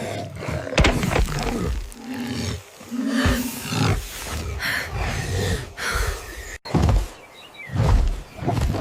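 A wild animal roaring and growling in several separate calls, a film creature sound effect.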